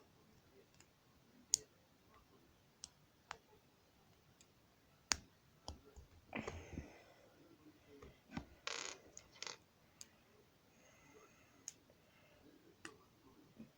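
Plastic Lego pieces clicking as they are handled and pressed together: scattered sharp clicks, with a rustle about six seconds in and a short rattle of pieces near nine seconds.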